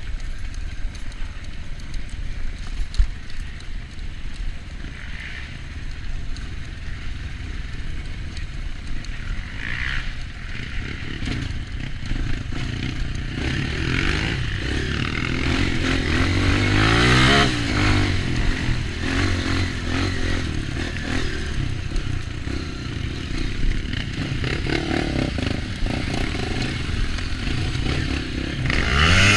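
Off-road dirt bike engine running on a trail ride, its revs rising and falling as the throttle is worked. The revs climb hard about two-thirds of the way through, and again near the end.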